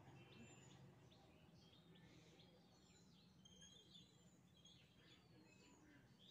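Faint birds chirping outdoors: many short, quick calls one after another, over a low steady hum.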